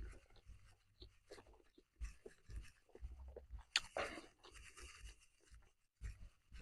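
Close-up chewing of a fried chicken burger, with small irregular crunches and wet mouth clicks and a louder crunch about four seconds in.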